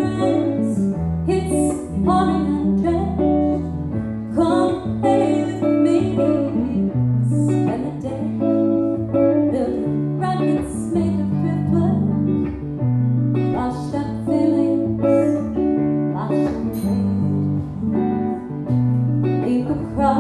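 Live band music: a guitar-led instrumental passage, with low notes moving through a chord progression under picked guitar notes.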